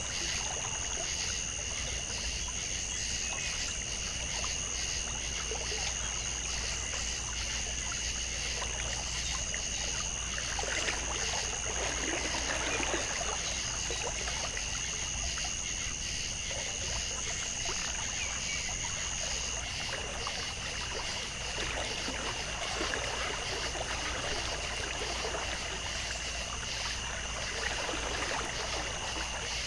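Water trickling and flowing steadily, with a swell about eleven to thirteen seconds in. Over it runs a steady high, pulsing drone at two pitches; the higher one drops out about two-thirds of the way through.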